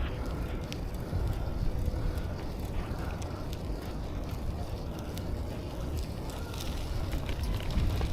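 Riding a bicycle: a steady low rumble of wind on the microphone and road noise, with scattered small clicks and rattles.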